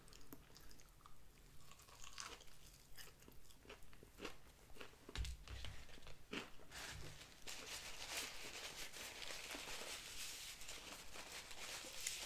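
Close-up chewing of a crispy breaded Popeyes spicy chicken sandwich, with many small crunchy crackles. About five seconds in come a few soft low thumps as the sandwich is set down on the plate, and from about seven and a half seconds a steady rustle of a paper napkin being rubbed over the fingers.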